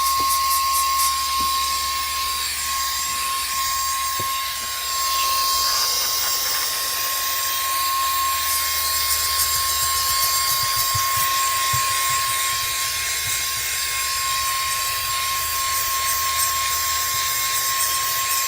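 VNOST handheld cordless car vacuum running in blower mode, its small high-speed motor giving a steady high whine over a rush of air.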